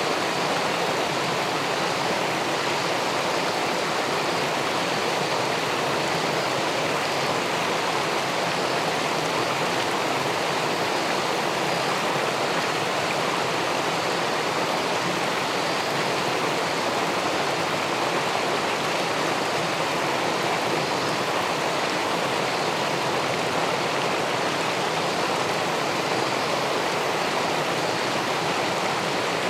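Steady rush of river water pouring over a weir into the pool below, picked up by a submerged camera.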